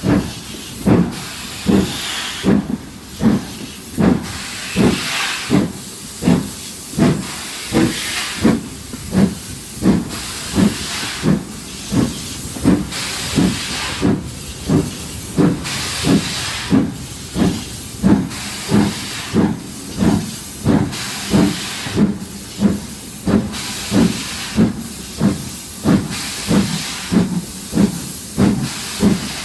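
Exhaust beats of the GWR Castle-class four-cylinder steam locomotive 4079 Pendennis Castle, a slow, even chuff about one and a half times a second with steam hiss between the beats.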